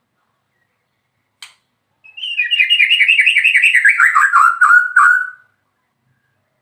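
White-rumped shama (murai batu) singing a fast run of about seven notes a second that falls steadily in pitch and ends on a short held note. A single click sounds about a second before the song.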